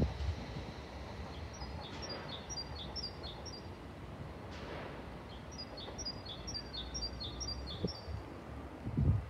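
A small songbird singing two phrases of quick, high, repeated falling notes, each phrase about two seconds long, over a steady low rumble. There is a low thump near the end.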